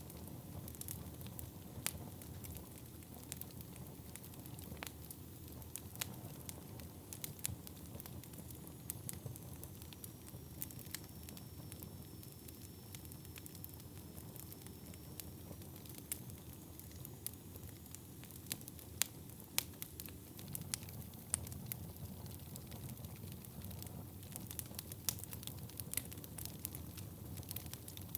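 Wood fire burning in a fireplace: a steady low rush of flames with frequent sharp crackles and pops, which come more often in the second half.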